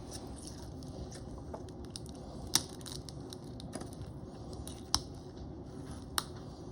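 Crab shell being broken open, with three sharp cracks over a steady low background hum.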